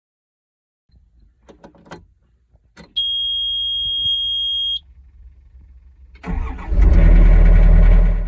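A few faint clicks, then a steady high electronic beep for about two seconds, then the Yanmar excavator's diesel engine cranks, starts and runs loudly. Near the end the engine sound cuts off suddenly.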